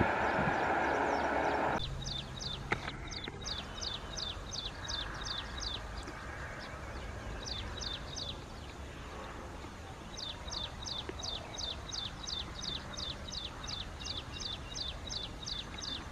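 A passing train's rumble for the first couple of seconds, cutting off abruptly. Then a bird calling in runs of short, quick, downward-sweeping chirps, about three a second, repeated several times.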